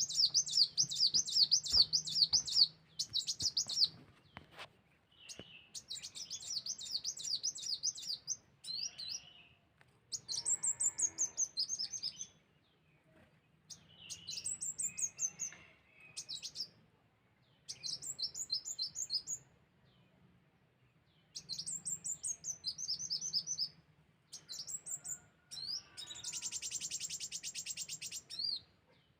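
Sunbird (kolibri wulung) lure song: bursts of rapid, high chirping notes, a couple of seconds long, separated by short pauses, with a fast buzzy trill near the end.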